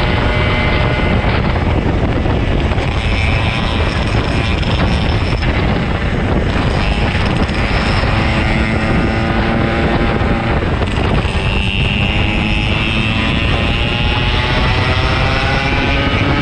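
Yamaha RX-King 135's single-cylinder two-stroke engine running under way, its pitch rising and falling with the throttle, with heavy wind noise on the microphone.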